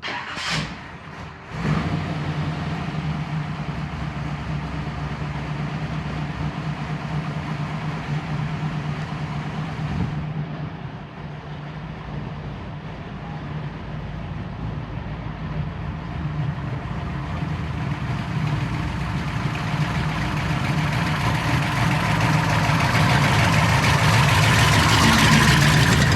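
Car engine running with a steady low drone that comes in sharply about a second and a half in. A broad rushing noise builds over the last ten seconds as the car gets louder.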